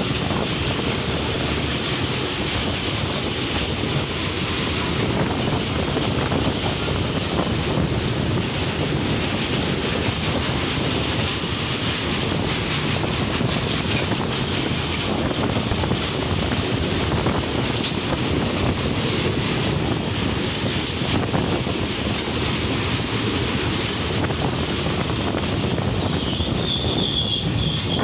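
Freight train wagons rolling past close alongside a moving passenger train: a steady, loud rumble of steel wheels on rails with a high-pitched wheel squeal over it.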